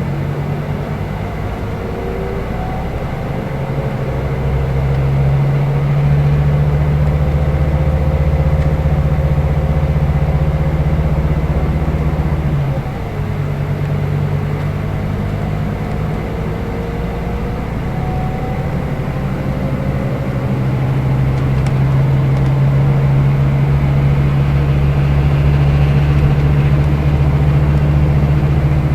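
Scania K320 IB coach's diesel engine running under load while driving, with a steady low drone and a faint gliding whine above it. About 13 seconds in the engine sound drops briefly and then picks up again, like a gearshift in the Opticruise gearbox.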